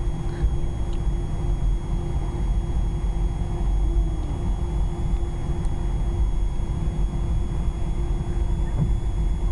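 Airliner cabin noise while taxiing to the runway: a steady low rumble with a constant hum and a faint high whine from the aircraft's engines and systems.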